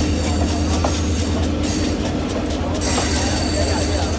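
Train running along the rails: a steady rumble with a constant hum, joined about three seconds in by a thin, high wheel squeal.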